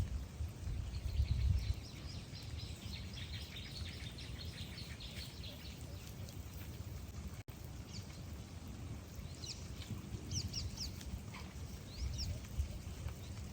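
Birds chirping in quick runs of short high calls, twice, over a steady outdoor hiss, with low rumbling bursts in the first two seconds.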